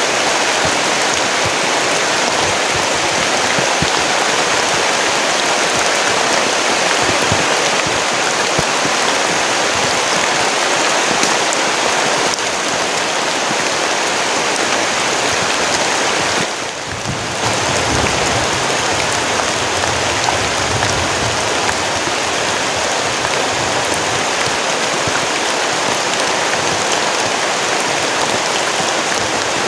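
Heavy rain falling in a steady downpour, a dense even hiss of drops. About halfway through it briefly drops away, then comes back with a low rumble underneath for a few seconds.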